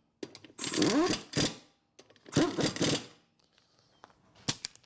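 Impact gun tightening the wheel bolts in two bursts of about a second each, spinning up and hammering. A couple of sharp clicks near the end.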